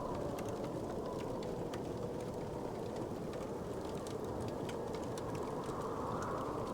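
Wood fire crackling, with many small scattered pops over a steady low rushing of the flames.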